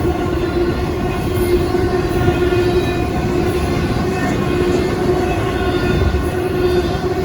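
Union Pacific train passing close by: a loud, steady rumble of wheels and cars on the rails, with a steady tone running through it.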